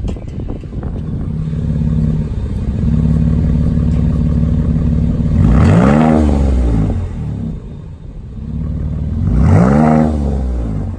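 2019 Dodge Durango's 3.6-litre V6 idling through a chambered-muffler exhaust with an H-pipe and the rear mufflers deleted. It is revved twice, once near the middle and once near the end, and each rev rises and falls back to idle.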